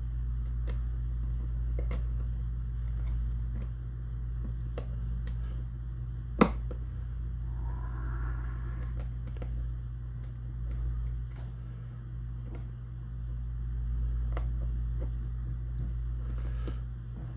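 Small metal clicks and taps from hand-working shotgun fore-end parts with small channel-lock pliers, with one sharp click about six seconds in, over a steady low hum.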